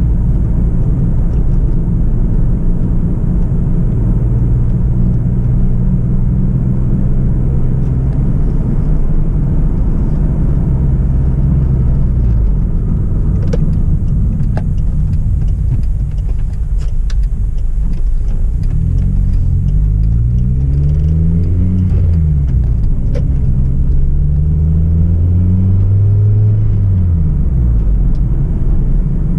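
Hyundai Tiburon's 2.0-litre petrol four-cylinder engine and exhaust under way, a steady drone at cruise for about twelve seconds before it eases off. From about eighteen seconds the revs climb and drop back twice as the car accelerates through the gears.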